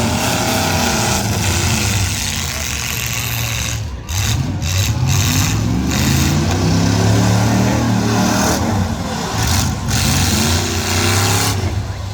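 Eight-cylinder demolition derby car engines revving hard, their pitch climbing and falling again and again as the cars accelerate and back off, with a brief lull about four seconds in.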